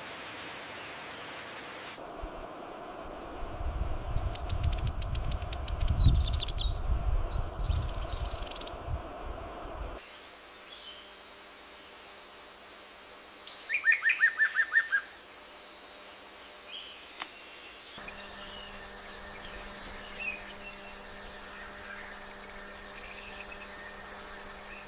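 Rainforest ambience in several short sections: scattered bird chirps over a low rumble, then a steady high insect drone with one loud, rapid series of about eight bird notes halfway through, and more scattered chirps near the end.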